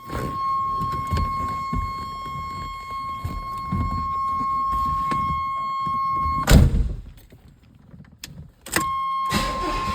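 A car's steady high-pitched warning tone sounds over rustling and knocking as someone gets into the car. A loud thump comes about six and a half seconds in. The tone then stops for about two seconds and starts again near the end.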